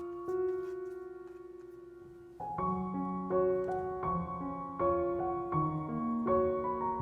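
Gentle background piano music: a single held note fades for about two seconds, then a steady flow of notes picks up again.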